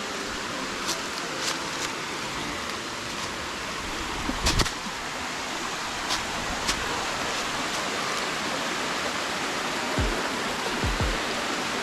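Steady rush of falling or flowing water from the river below a waterfall, with a few sharp clicks scattered through it and some low thumps near the end.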